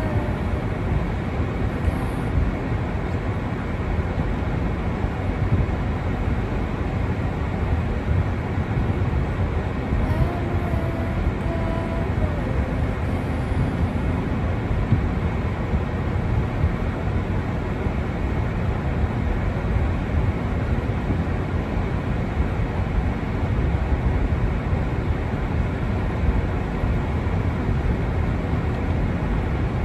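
Steady outdoor noise with a strong low rumble, unchanging throughout, with a few faint short tones about ten to thirteen seconds in.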